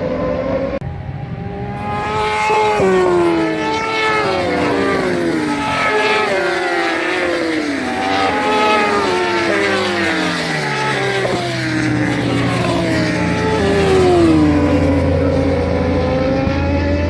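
Racing superbikes at speed, several engines passing one after another. Their pitch falls again and again, as they pass and shift down through the gears.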